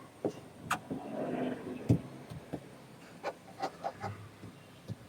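Hands working at a car door handle: a short stretch of rubbing about a second in as the protective handle-guard film is smoothed onto the paint, with scattered light clicks and taps of the handle and fingers.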